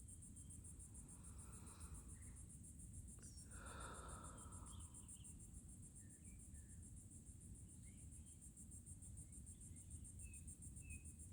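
Faint insect chorus: a steady, fast-pulsing high trill, like crickets, with a few faint short chirps scattered through it and a brief soft noise about four seconds in.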